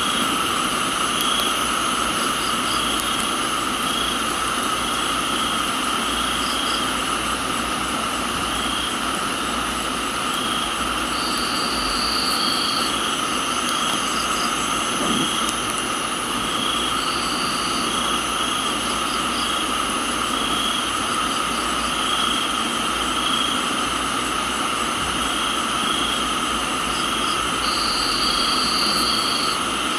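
Steady hiss of rain with crickets and other insects calling in several unbroken high tones. One chirps in short, even pulses about once a second, and a higher trill sounds three times for a second or two.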